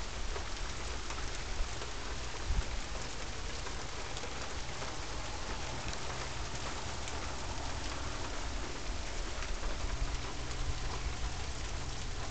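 Steady rain falling, an even hiss of drops, with a couple of brief sharp taps about two seconds in.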